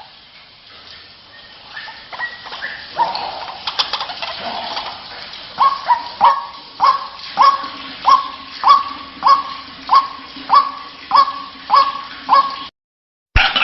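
White-breasted waterhen (ruak-ruak) calling. From about five seconds in it gives a regular run of about a dozen sharp calls, nearly two a second, each with a quick upward sweep. The run cuts off abruptly near the end.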